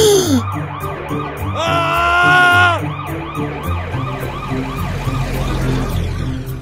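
Siren sound effect wailing in quick, repeating rising-and-falling yelps over background music, with a held shout of "Ah!" about two seconds in.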